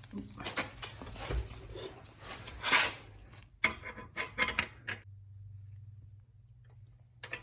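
Hardware being handled as bolts are pushed up through the bottom of a table saw's folding stand and wing nuts are fitted: irregular clicks and knocks, with a louder scrape about two and a half seconds in. A few quiet seconds of low hum follow, then more clicks near the end.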